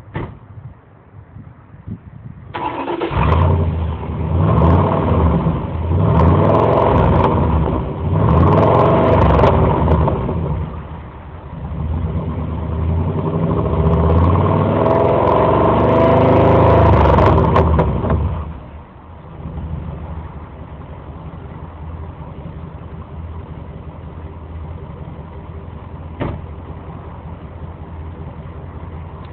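1998 Suburban K1500's 5.7 L Vortec 350 V8 starting about two and a half seconds in. It is revved four times, the last held longest, then drops to a steady idle. The exhaust runs through a resonated tip on a shortened tailpipe and sounds low and grumbly.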